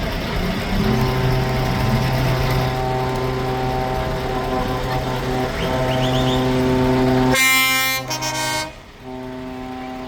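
Truck air horns blowing in long, steady held blasts, with several tones sounding together as a chord. The blasts break off and start again, and a harsher, shorter blast cuts in about seven and a half seconds in.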